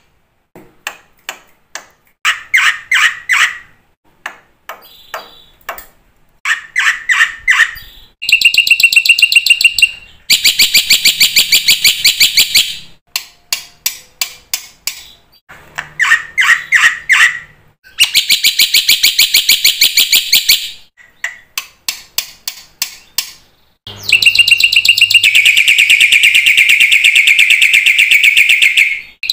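Black-winged myna (jalak putih) singing. Fast series of clicking notes and short buzzy chattering phrases alternate with several long, loud, harsh rattling trills of two to five seconds each.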